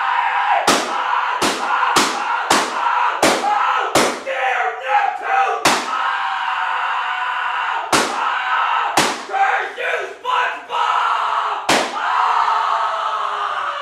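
Cartoon fight sound effects: a steady din of shouting and scuffling, broken by about ten hard slaps and slams at uneven intervals.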